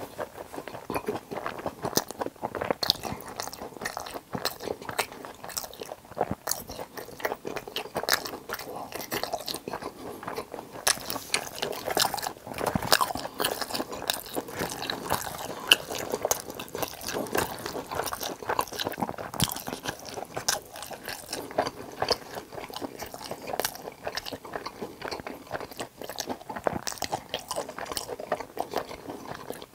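Close-miked crunching and chewing of crispy fried sweet-and-sour pork topped with cheese, a continuous run of irregular crisp bites and chews.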